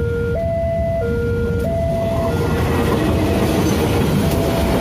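Railway level-crossing alarm sounding a two-tone signal that switches between a higher and a lower pitch about every two-thirds of a second. From about two seconds in, a freight train of flat wagons loaded with rails rolls through the crossing, its wheel and wagon noise growing louder beneath the alarm.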